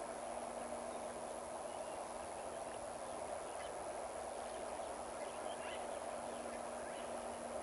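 Steady rush of flowing river water with a faint steady hum underneath, and a few faint, brief bird chirps.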